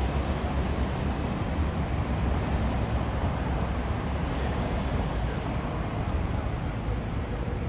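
Steady road traffic noise: a low rumble of vehicle engines and tyres, with no siren sounding.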